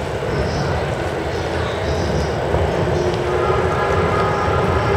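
485-series electric train coming in along the station's platform track, its running noise a steady low rumble that swells slightly. Faint steady tones come in about three seconds in, over background platform noise.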